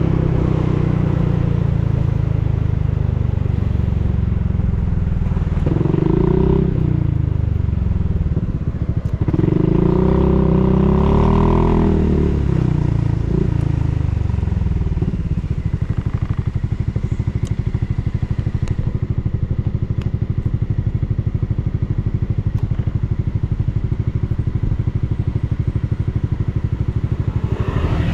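Honda Forza 350 scooter's single-cylinder engine running through a Yoshimura full exhaust system: revved twice, the second time longer, then settling back to a steady idle.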